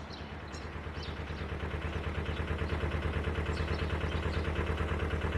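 Narrowboat's diesel engine running with a steady, even chug that grows slightly louder.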